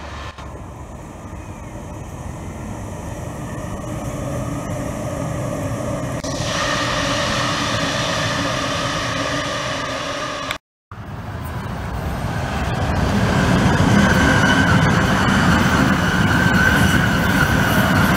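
Double-deck Sydney Trains electric trains passing on the line, their rumble growing louder as they draw near. The sound drops out for a moment about ten and a half seconds in, then a Waratah set passes close with a steady high whine over the wheel rumble.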